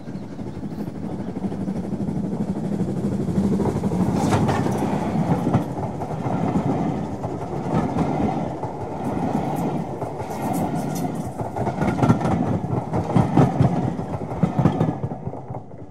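Passenger train carriages rolling past close by: a steady rumble with irregular knocks of the wheels over the rail joints, the loudest run of knocks near the end before it fades out.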